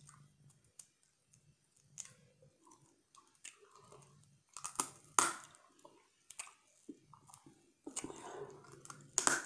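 Close-up chewing of boiled shellfish, with sharp crackles and clicks of shell being picked apart and broken, loudest about five seconds in and again near the end.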